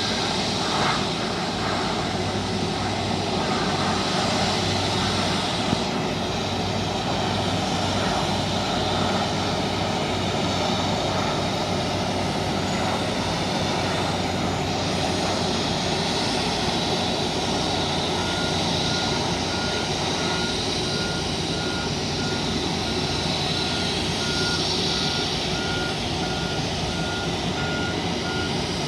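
Airbus A330 jet engines running steadily as the airliner taxis. From a little past halfway, a vehicle's reversing beeper sounds at one pitch, about two beeps a second.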